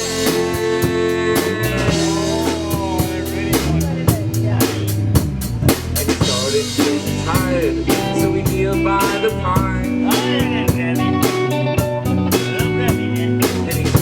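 Live rock band playing an instrumental passage. The drum kit keeps a steady beat under bass and chords, while a lead guitar plays bending notes.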